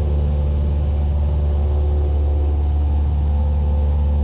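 Cessna 172's piston engine and propeller running at full power in a steady drone during the takeoff roll.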